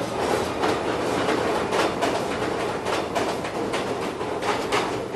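An Underground train running along the track: a steady rumble and hiss with irregular wheel clacks over the rail joints.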